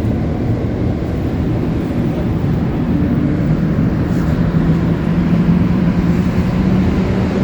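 MR-73 rubber-tyred metro car running through the tunnel, heard from inside the car: a steady rumble with a low, even hum.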